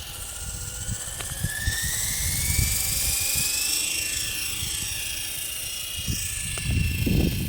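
Small electric motor and rotor of a toy remote-control helicopter whining. The pitch rises over the first few seconds, then holds steady.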